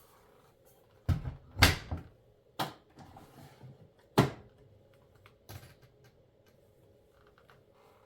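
Five sharp clunks and knocks over about four and a half seconds, the second the loudest, like a door or drawer being handled and shut.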